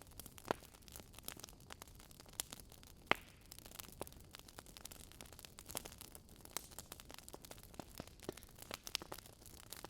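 Wood fire burning in a fireplace, crackling: irregular sharp pops and snaps over a faint steady hiss, with two louder snaps about half a second and three seconds in.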